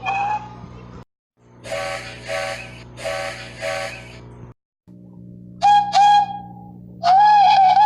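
A string of separate steam engine whistle clips, cut apart by silence, each over a low steady hum. First come four short toots of a two-note whistle, then two short toots of a single-note whistle, then one longer whistle that wavers in pitch.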